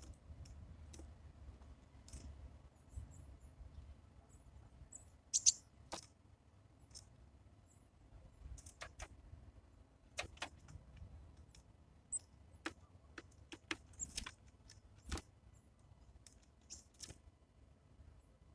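Titmice at a bird feeder: scattered sharp clicks and taps of beaks and feet on seed and feeder, the loudest about five seconds in and again near fifteen, with a few brief high chirps.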